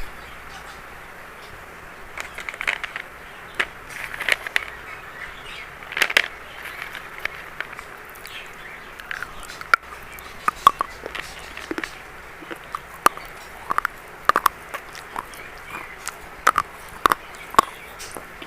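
Red-brown 'biscuit' chalk being bitten and crunched: irregular sharp crunches every half second to a second, over a steady hiss.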